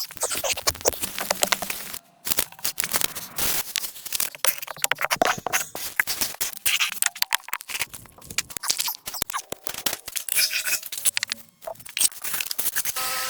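Dense crunching, scraping and cracking noises of manual building work, a rapid irregular run of clicks and knocks. It drops out briefly twice, about two seconds in and near the end.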